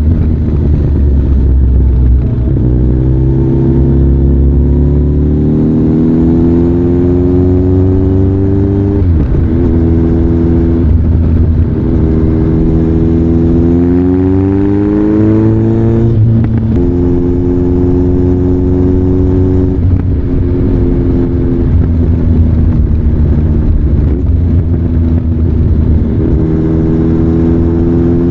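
Kawasaki ZRX1200 DAEG's inline-four engine through a NOJIMA aftermarket exhaust, accelerating. The pitch climbs, drops sharply at a gear change, climbs again to a second sharp drop a little past halfway, then holds steady.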